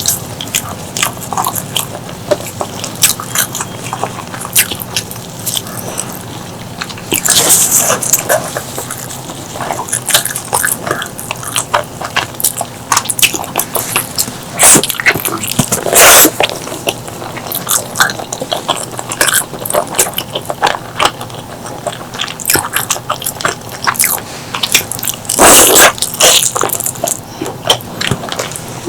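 Close-miked eating of pork leg curry with rice: rapid wet chewing and lip-smacking clicks throughout, with three louder, longer bursts about 8, 16 and 26 seconds in.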